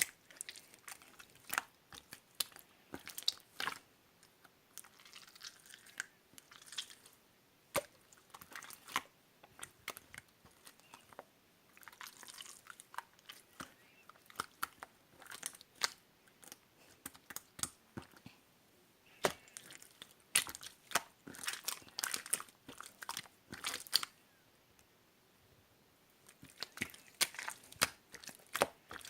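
Clear blue slime being pressed, folded and stretched by hand, giving irregular wet crackling clicks and pops, with a couple of short pauses.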